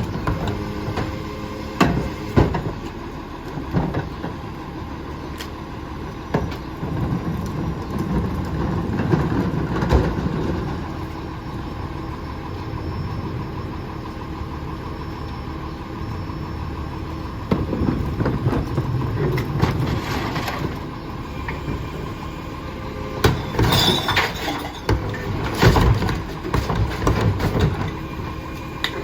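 Heil rear-loader garbage truck running steadily, with repeated bangs and clattering crashes over the engine, several in a row near the end.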